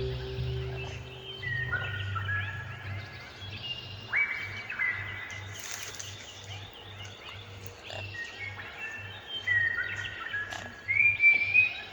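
Many short bird chirps and whistles, overlapping, some rising or falling in pitch, over background music with a soft steady low beat.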